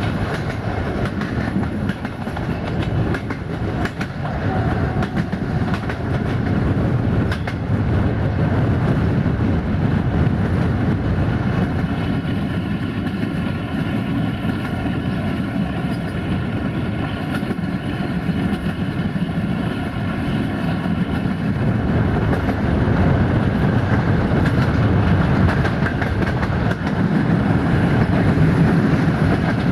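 Passenger train running along the track, heard from an open coach window: a steady rumble of wheels on rails with clicks as the wheels pass over rail joints, a few sharp clicks standing out in the first several seconds.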